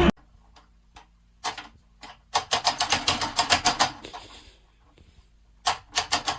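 Light clicks or taps, a few on their own and then two quick runs of about eight a second.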